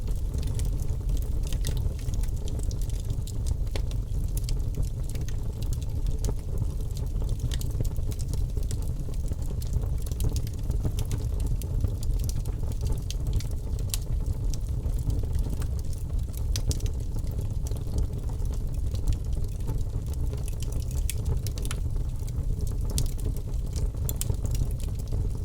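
Birch logs burning in a fireplace: a steady low rumble of flame with frequent sharp crackles and pops.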